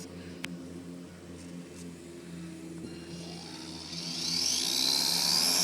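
RC P-51D Mustang model's motor and propeller spinning up for a takeoff run: a whine rising in pitch from about three seconds in and getting louder toward the end, over a steady low hum.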